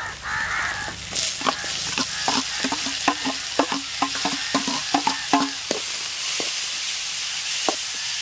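Chopped onions sizzling in hot oil in a metal wok, with a metal spatula clinking rapidly on metal as tomatoes are scraped in and stirred, then a few single taps near the end.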